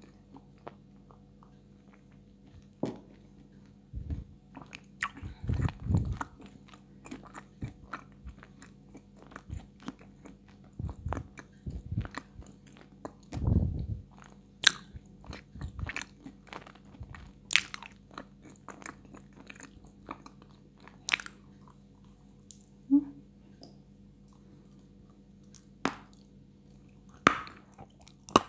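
Close-miked biting and crunchy chewing of Astana 2 edible clay, a white, medium-hard clay. Sharp crunches come in irregular bursts, with a few heavier bites along the way.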